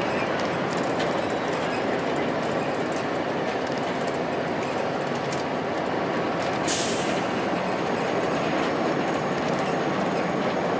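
Inside a 2002 Blue Bird transit bus under way: its Cummins ISC diesel runs steadily under road noise and light body rattles. A brief hiss comes about two-thirds of the way through.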